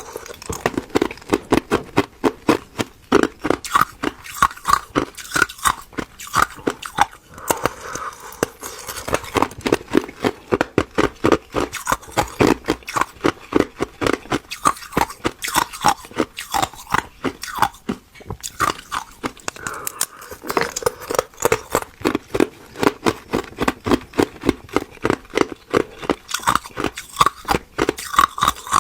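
Ice being bitten and chewed close to the microphone: crisp crunches in a continuous run, about two or three a second.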